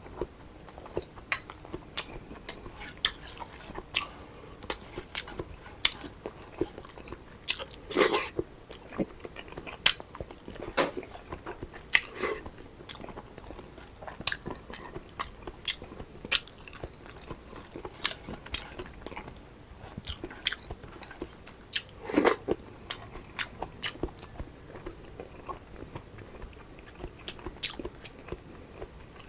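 Close-miked eating: a person chewing and biting food, with many irregular wet mouth clicks and crunches and a couple of louder ones about 8 and 22 seconds in.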